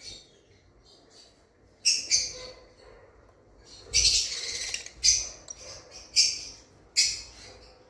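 Lovebirds calling: shrill, sharp chirps in short bursts about a second apart, with a longer chattering burst about four seconds in.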